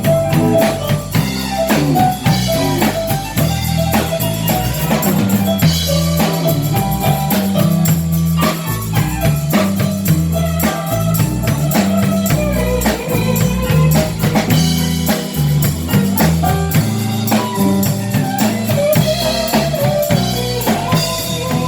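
Live rock band playing an instrumental passage: drum kit, bass and electric guitar, with no singing.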